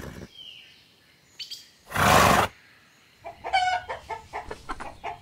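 A pony gives one loud, short, breathy snort about two seconds in. From about three seconds in, chickens start clucking in a quick string of short calls.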